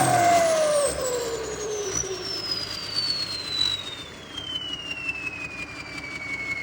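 Turbocharger whine on a diesel engine, a high whistle falling steadily in pitch as the turbo spools down after the throttle is let off, with the engine settling back below it about a second in.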